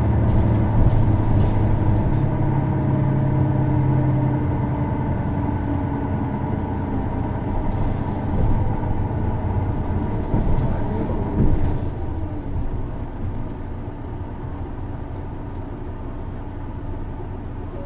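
Isuzu Erga city bus heard from inside the cabin: its diesel engine runs with a steady drone for about five seconds, then eases off and grows quieter. A few knocks and rattles sound near the middle.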